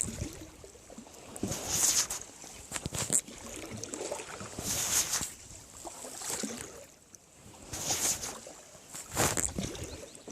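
Water splashing in a slow, repeated rhythm, one splash every one and a half to two seconds over a steady hiss.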